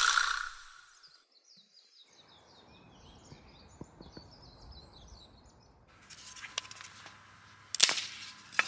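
Small songbird twittering: a quick run of high chirps for a few seconds. Before it, a hiss fades out in the first second; near the end come a faint rustling haze and a couple of sharp clicks.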